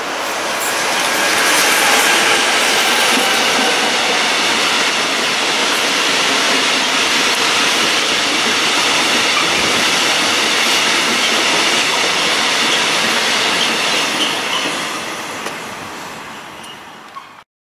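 A train passing on the main line: the rolling noise of its wheels on the rails swells over the first two seconds and holds steady. It fades away from about fourteen seconds in, then cuts off abruptly.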